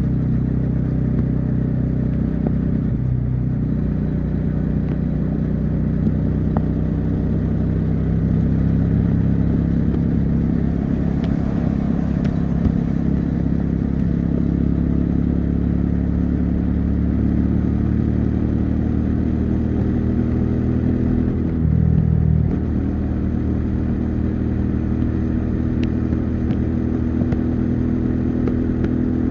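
Bajaj Dominar 400's single-cylinder engine and exhaust running at a steady highway cruise. The note dips briefly and comes back about three seconds in, and again around twenty-two seconds.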